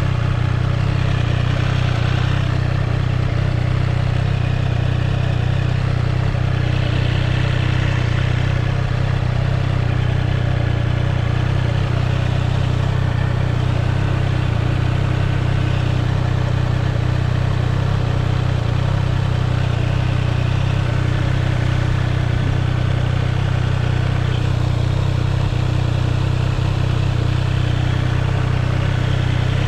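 Triumph Street Triple's inline three-cylinder engine running steadily, with no revving.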